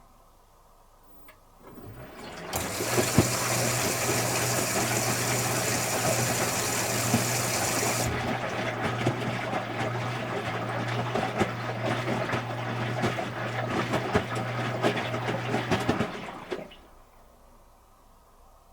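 Water rushing through an Electrolux Wascator W355H commercial washing machine for about fourteen seconds, over a steady low hum. The hiss is brighter for the first five seconds or so, then stops suddenly.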